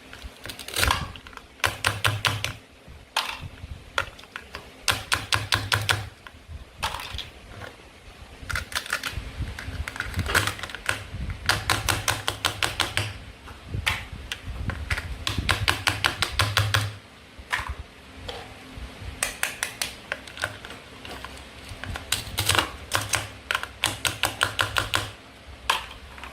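Toy knife working through plastic play food on a cutting board, making runs of rapid sharp clicks, about ten a second, broken by short pauses, with low thuds beneath.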